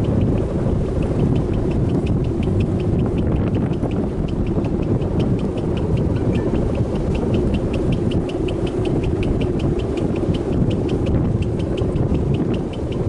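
Strong wind buffeting the microphone, a steady low rumble. Faint, even ticking runs above it, about four to five ticks a second.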